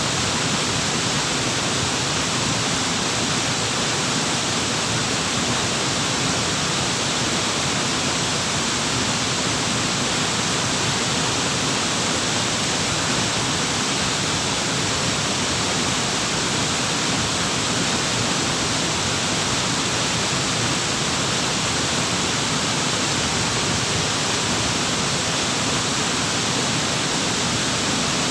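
Waterfall running, a steady, even rush of falling water that does not change, brighter and hissier than it is deep.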